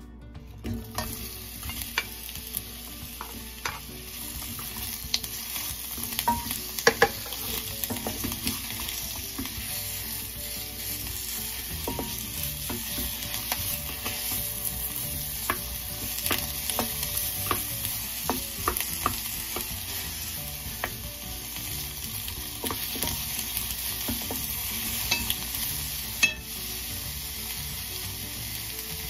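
Sliced onion sizzling in hot oil in a stainless steel pan, starting about a second in as the onion goes into the oil. A wooden spatula scrapes and knocks against the pan as the onion is stirred, with a few sharper knocks.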